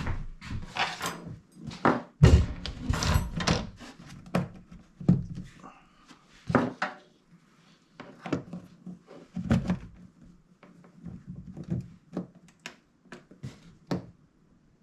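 Irregular knocks, clunks and rattles of equipment being handled and set down, densest in the first few seconds and thinning to scattered taps later.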